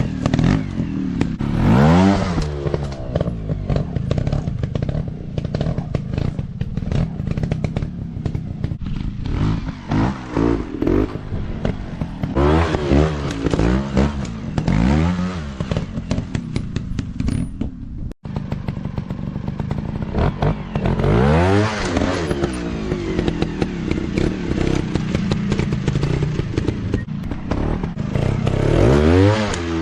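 Dirt bike engines revving up and down again and again, their pitch rising and falling in repeated sweeps, with clattering and scraping mixed in. The sound cuts out for a split second about two-thirds of the way through, then resumes.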